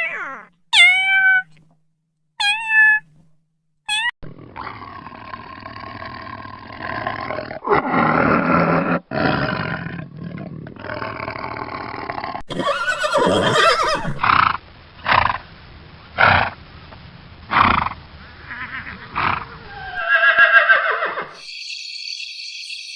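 A cat meowing three or four times, then a large animal roaring: long rough calls followed by a run of shorter grunts about once a second. Crickets start chirping steadily near the end.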